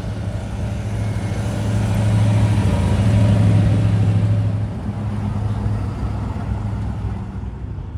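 A classic car's engine rumbling as it drives past, growing louder and fading again over a few seconds with a steady low pitch.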